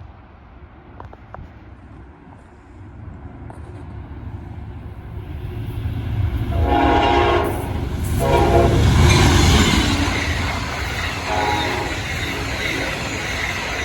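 A train approaching and passing, its rumble building to its loudest about nine seconds in, with wheel and car noise as it goes by. Its horn sounds three times, a long blast, a short one and another about three seconds later.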